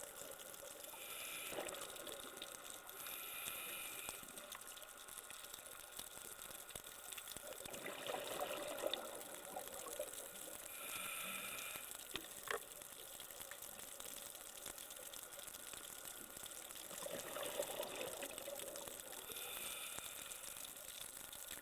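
Scuba breathing heard underwater: regulator breaths and gurgling bursts of exhaled bubbles that come every few seconds, with one sharp click about halfway through.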